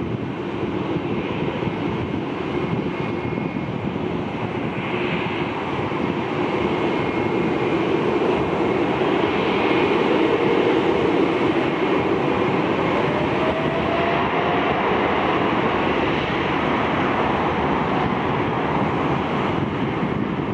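Jet airliner passing, its engine noise a steady rush that swells to its loudest about halfway through and eases slightly, with a faint rising whine about two-thirds of the way in.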